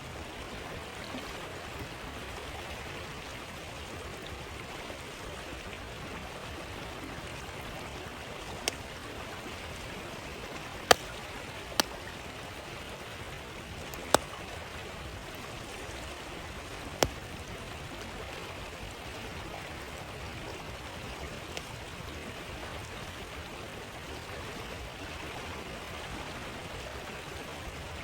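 Steady rush of a flowing stream, with a handful of sharp pops and cracks from a crackling campfire, the loudest about eleven seconds in.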